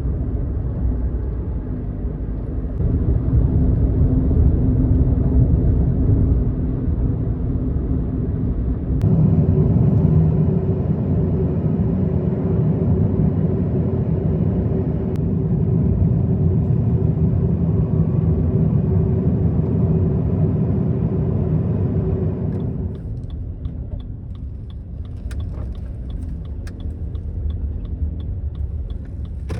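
Suzuki Hustler driving: a steady low rumble of road and engine noise. Near the end the rumble eases and a quick, even ticking starts.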